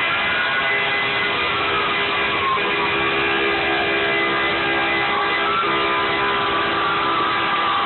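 Fire truck sirens wailing in several overlapping glides, their pitch rising and then falling slowly, over a steady held tone and a constant noisy din of the passing trucks.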